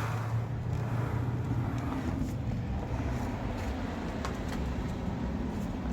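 A car engine running close by, a low steady hum that is strongest for the first couple of seconds and then eases off.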